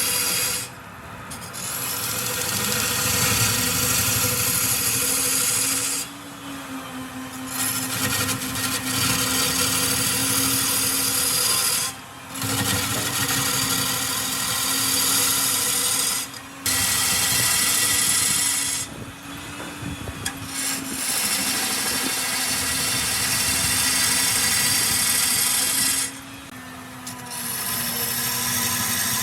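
Wood lathe running with a steady motor hum while a tool works the spinning wood, giving a loud hissing scrape. The scrape breaks off briefly about six times as the tool is lifted away, and the lathe's hum carries on through each break.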